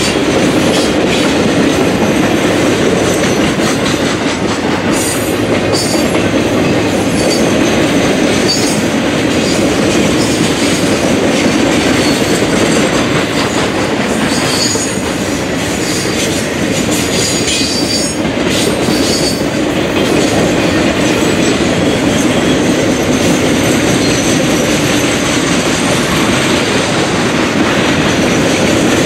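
Triple Crown RoadRailer train, highway trailers riding on rail bogies, rolling steadily past close by. The wheels on the rails make a continuous rumbling clatter, with brief high-pitched wheel squeals a few times, mostly around the middle.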